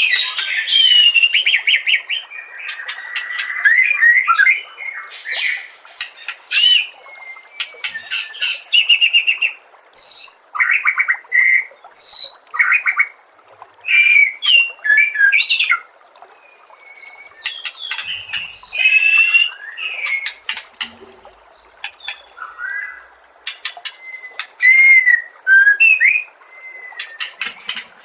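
White-rumped shama (murai batu) singing a fast, varied song: loud whistled phrases that sweep up and down, mixed with rapid clicking rattles, with short pauses between bursts.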